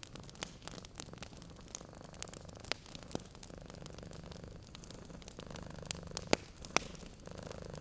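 A cat purring steadily over a crackling wood fire, with sharp pops scattered throughout and two louder pops toward the end.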